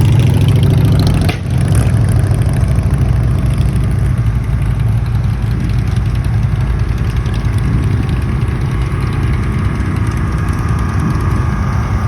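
Boat engine running steadily at low speed with a deep, even rumble. It briefly dips about a second in.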